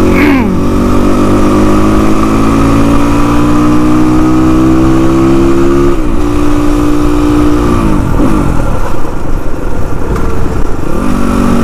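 Motorcycle engine under way: its pitch climbs steadily as it accelerates through a gear, dips briefly about six seconds in at a gear change, then falls away as the throttle eases about eight seconds in, and picks up again near the end.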